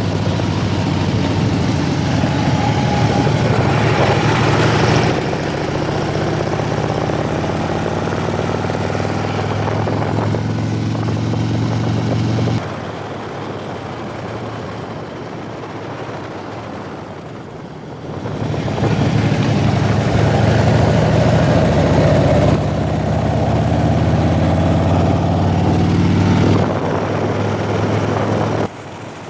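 Motorcycle engine running while riding, with wind rush over it. The pitch rises slowly as it accelerates, and the sound changes abruptly a few times where clips are joined.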